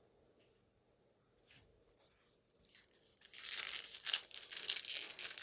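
Near silence, then about three seconds in a loud crinkling, tearing rustle of trading-card packaging and cards being handled.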